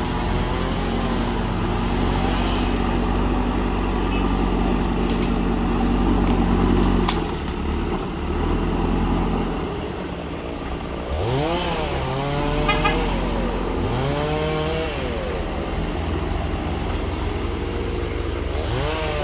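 Heavy diesel machinery engine running steadily, then revving up and dropping back twice in the second half.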